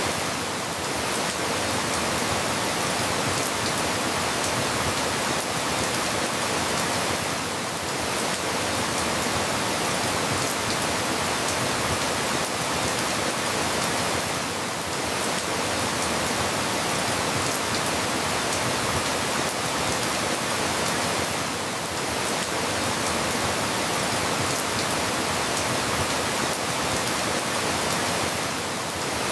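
Steady, dense rainfall, an even hiss with no single drops standing out. The level dips slightly about every seven seconds.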